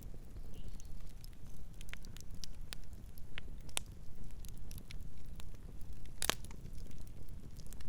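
Campfire crackling, with irregular sharp pops and snaps over a steady low rumble; one pop about six seconds in is the loudest.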